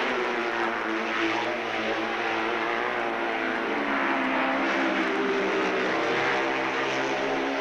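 Racing motorcycle engines running hard at high revs on the road course, a steady drone whose pitch shifts slowly up and down.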